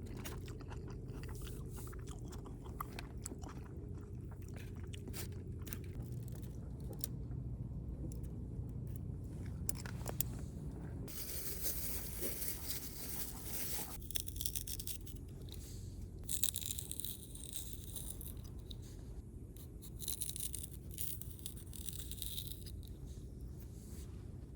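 A person chewing and crunching food close to the microphone, with many small crunching clicks over a steady low rumble and stretches of hiss.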